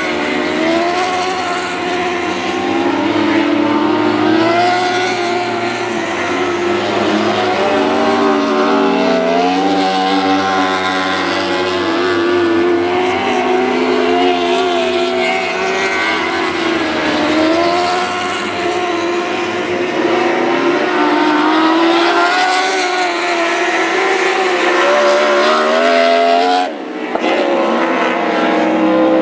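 Lightning sprint car engine running hard on a qualifying run, its pitch rising and falling over and over as it gets on and off the throttle. The sound drops out briefly near the end.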